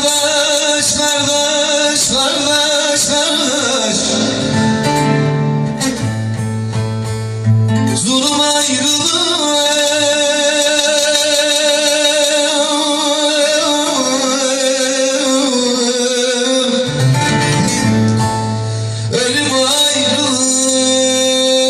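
Bağlama and acoustic guitar playing an uzun hava, a free-rhythm Turkish folk song, with a voice singing long, wavering ornamented notes.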